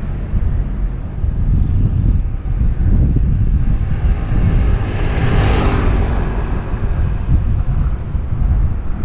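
Wind rumbling on a helmet-mounted GoPro microphone while cycling, with a motor vehicle passing that swells and fades about five to six seconds in.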